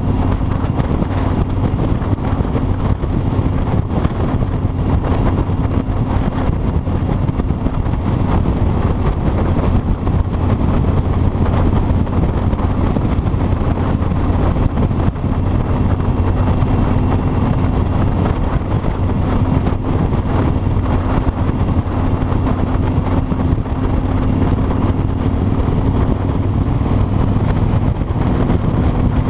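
Kawasaki Vulcan 2000's 2-litre V-twin engine running steadily at highway cruising speed, with wind noise on the microphone.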